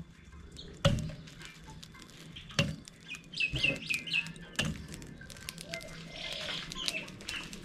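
Birds calling: a quick run of about four short, high, falling chirps near the middle. A few sharp knocks come before and after it.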